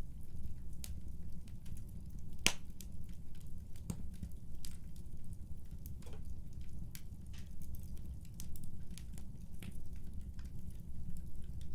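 Wood fire burning in a fireplace: a steady low rumble of flames with irregular sharp crackles and pops, the loudest pop about two and a half seconds in.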